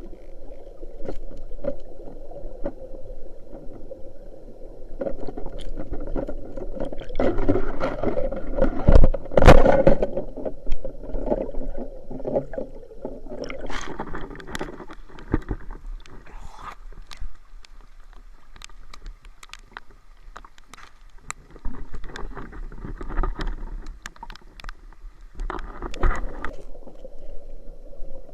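Water splashing and gurgling close to the microphone, with many scattered clicks and knocks; it swells louder twice, around a third of the way in and near the end.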